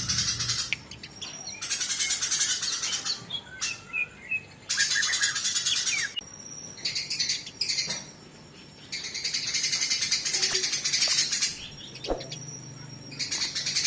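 Songbird chatter in the style of fighting house sparrows: rapid, harsh chirping in bursts of a second or two with short gaps between. It is the kind of call used as master material for training a white-rumped shama.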